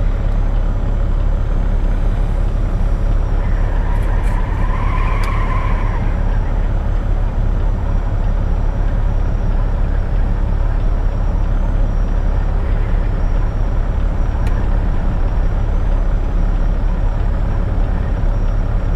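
Semi-truck diesel engine idling, a steady low rumble heard inside the cab. A faint brief higher tone comes in about four seconds in.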